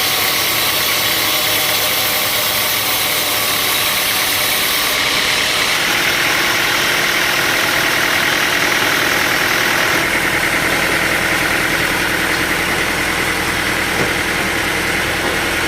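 Sawmill machinery running steadily with an engine-like drone, its pitch and tone changing abruptly a few times.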